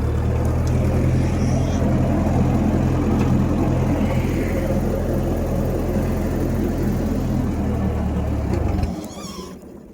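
1956 Massey Ferguson F40 tractor engine running steadily, then stopping near the end and dying away.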